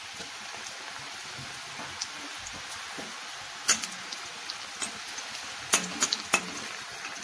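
Nimki dough strips frying in hot refined oil in a metal kadhai: a steady sizzling hiss, with several sharp clicks in the second half.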